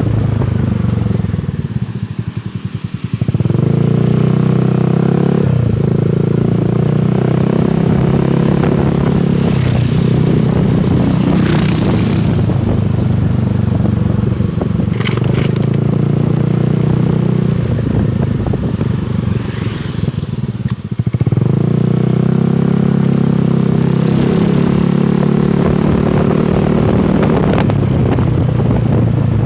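Honda Spacy scooter's single-cylinder engine running through an aftermarket NOB1 exhaust while being ridden, holding a steady note. It eases off briefly near the start and again about two-thirds of the way through, then picks up again.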